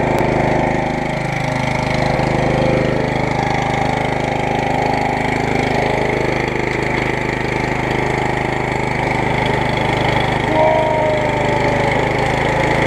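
MTD lawn tractor engine running steadily with the newly fitted drive belt.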